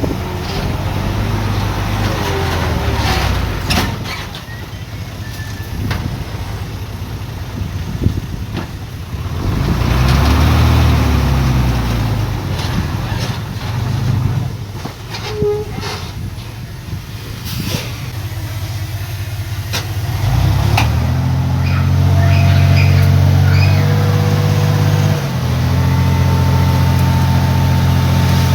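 Heavy diesel earthmoving machinery working: the engines run and rev up and down, with scattered metallic knocks and clanks. The engine note rises and gets louder about ten seconds in and again in the last third.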